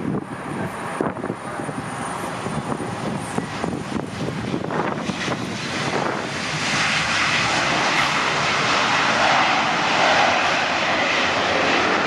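Jet airliner engines running nearby, a steady roar that grows louder about six seconds in and stays loud.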